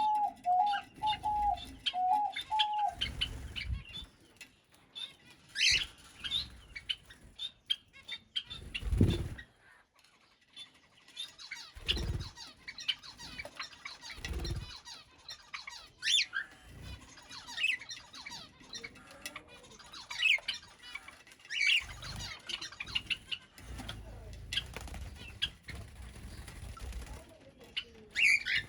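Aviary birds chirping and calling in short scattered notes, with a quick run of repeated clear notes in the first few seconds. Several short low thumps come and go throughout.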